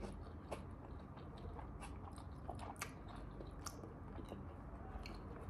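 Faint chewing: small scattered mouth clicks of someone eating spaghetti.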